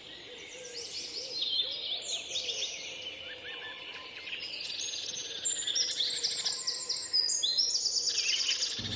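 Several birds singing and chirping over one another, high-pitched, with fast, evenly pulsed trills joining from about halfway in.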